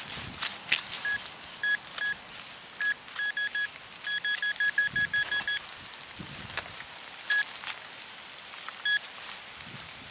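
Short electronic beeps at one fixed pitch from a metal detecting pinpointer as it is worked around a target in a dug hole, coming singly and then in a quick run of about a dozen about four seconds in. Scrapes and clicks of digging in soil come between the beeps.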